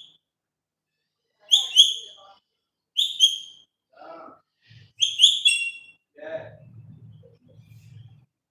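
Pet parrot giving loud, shrill two-note whistling calls, three times in a row, then softer low chatter near the end.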